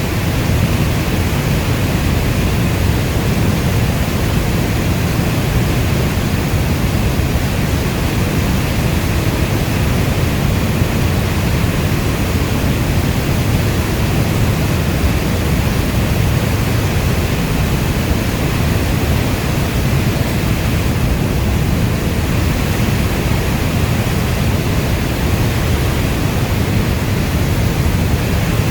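Steady heavy rainstorm, an even unbroken rushing hiss with most of its weight in a deep low rumble.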